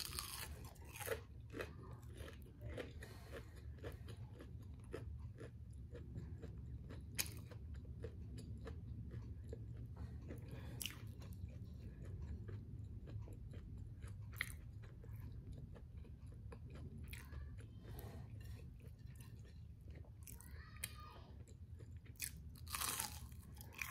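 Close-up chewing and biting of crispy fried food, with irregular sharp crunches throughout over a low steady hum.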